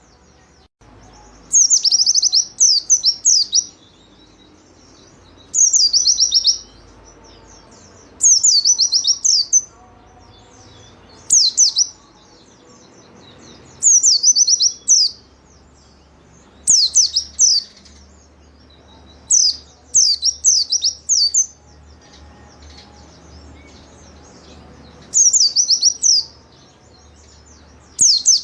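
White-eye (pleci) singing in short, fast bursts of high, downward-sweeping notes, one burst every two to three seconds, with a longer pause about two-thirds of the way through.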